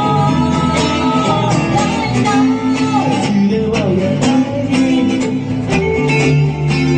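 A band playing live: guitars over a steady drum beat, with long held notes in the first half.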